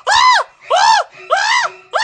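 A voice crying out in pain in short, loud yells, each rising then falling in pitch, coming in quick succession about one every 0.6 seconds.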